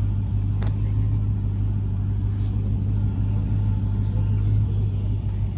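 A car engine idling steadily, a constant low rumble.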